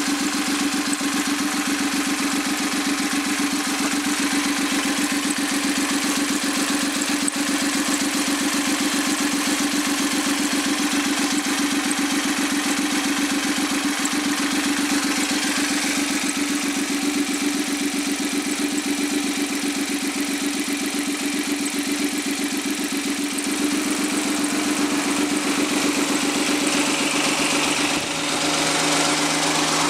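Suzuki K6A 658 cc three-cylinder engine, turbo version run bare without its turbocharger, idling steadily and warmed up. Its tone shifts slightly about two-thirds of the way through, with a brief dip in level near the end.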